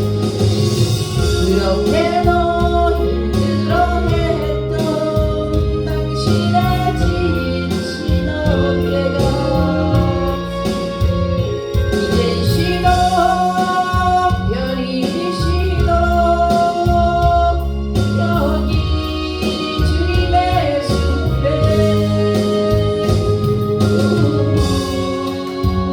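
Korean gospel song with a sung vocal line of long held notes over a steady instrumental accompaniment.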